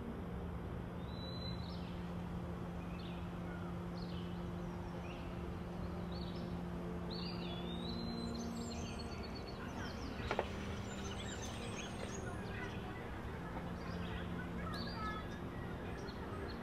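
Small birds chirping in short, repeated high calls over a steady low hum, with one sharp click about ten seconds in.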